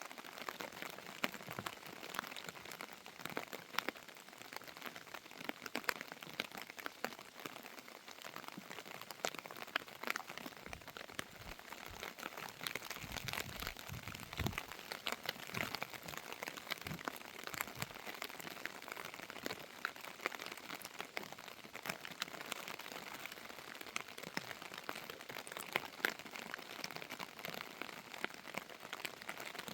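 Steady rain falling, with many separate drops ticking close to the microphone. A few dull low knocks come about halfway through.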